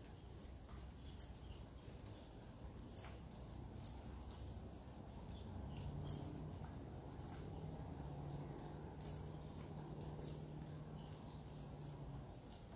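A bird chirping: a handful of sharp, high, quickly falling single calls a second or more apart, with fainter chirps between. A faint steady low hum comes in around the middle and stops near the end.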